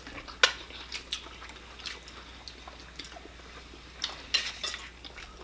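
Eating sounds from a seafood boil: chewing with scattered sharp clicks and cracks, the loudest about half a second in and a cluster around four seconds in.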